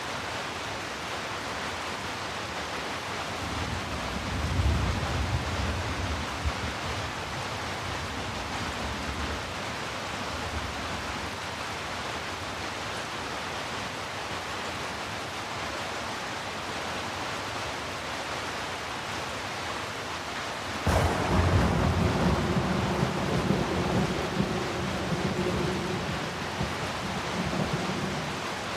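Steady rain falling, with a low roll of distant thunder a few seconds in. About two-thirds of the way through a sudden, sharp thunderclap breaks and rumbles on for several seconds.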